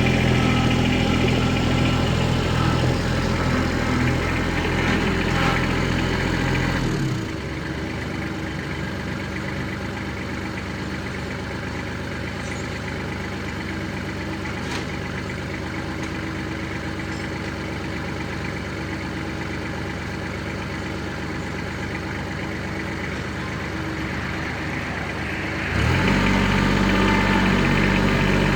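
Kubota L3700SU diesel tractor engine running, its pitch falling and the sound dropping to a quieter, lower-speed run about seven seconds in, then revving back up to the higher, louder speed near the end.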